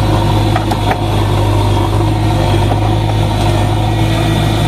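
Backhoe loader's diesel engine running steadily, with a few short metallic clicks about a second in.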